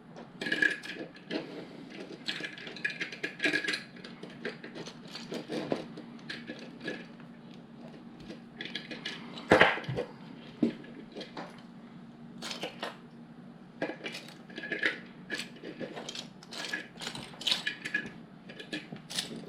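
Plastic LEGO pieces clicking and clattering as they are rummaged through and handled, in many small irregular clicks, with one sharper click about ten seconds in.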